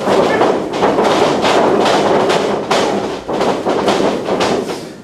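Wrestling crowd yelling and cheering, with a run of irregular sharp thuds and smacks over it.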